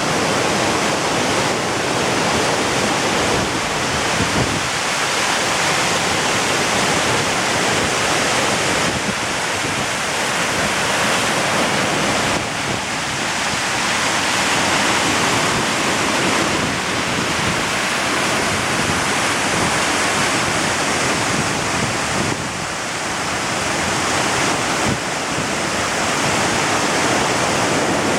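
Waterfall pouring, a loud, steady rush of falling water with some wind buffeting the microphone.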